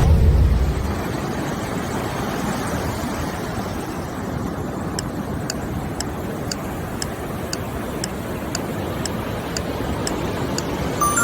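Steady rushing noise, with a light clock-like ticking about twice a second joining about halfway through: a countdown-timer tick.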